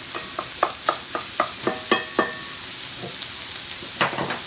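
Pork sausage sizzling as it browns in a frying pan, with a utensil knocking against the pan as the meat is stirred and broken up: about three knocks a second for the first two seconds, some of them ringing briefly, then one more knock near the end.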